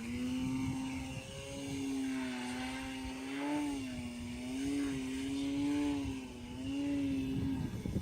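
Radio-controlled model airplane's motor and propeller droning in flight, the pitch wavering up and down as the throttle and the plane's distance change, with a brief dip about a second in.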